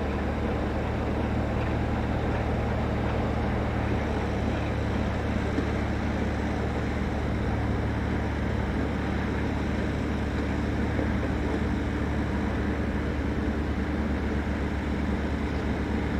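Class 33 diesel-electric locomotive's Sulzer eight-cylinder engine running steadily at a low, even pitch.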